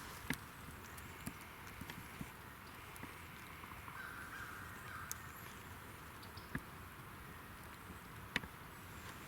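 Faint outdoor ambience with scattered small clicks and a faint distant bird call about four seconds in.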